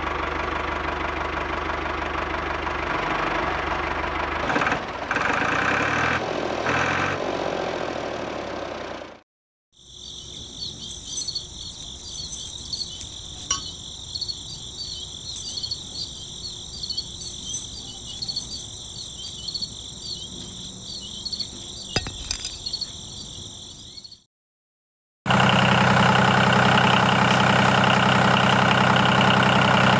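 Tractor engine sound running steadily, cut off about nine seconds in. Then insects chirp in a high, steady trill for about fourteen seconds. The engine idling returns near the end.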